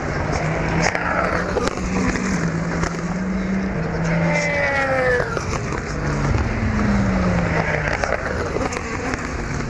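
Endurance race cars going past at speed on the Le Mans circuit, their engine notes sliding down in pitch as each one passes, with a strong pass about four to five seconds in and another soon after.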